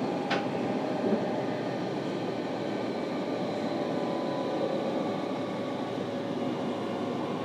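Interior running sound of a JR Kyushu 305 series EMU motor car, which has Toshiba permanent-magnet synchronous traction motors, under way. Steady rolling noise with faint steady tones, and a short click about a third of a second in.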